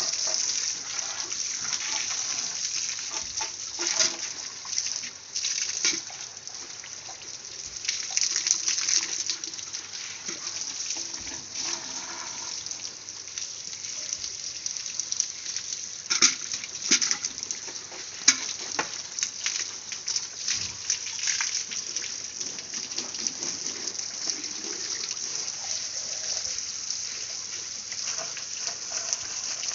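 Water spray hitting a motorcycle during a wash, a steady hiss and splatter that surges and drops as the jet moves over the bike.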